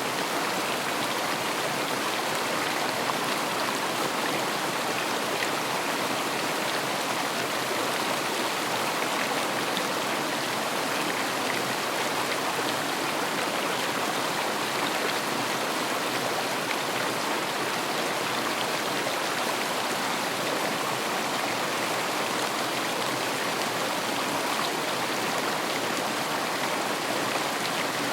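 River water rushing and babbling in a steady, even wash.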